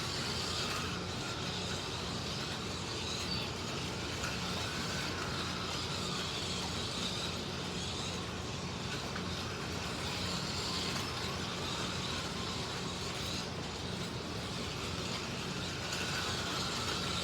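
Racing slot cars running around the track: the electric motors whine over a steady hiss, the pitch rising and falling as the cars speed up and slow for the corners.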